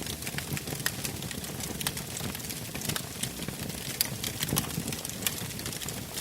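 Wood fire burning in a fireplace, crackling: irregular sharp pops and snaps over a low, steady rumble of the flames.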